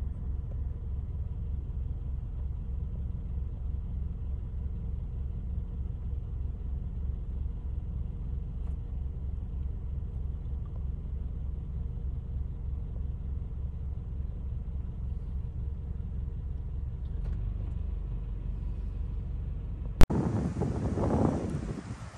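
Low, steady rumble of a car heard from inside the cabin. About two seconds from the end it cuts off with a click, and wind buffeting the microphone takes over.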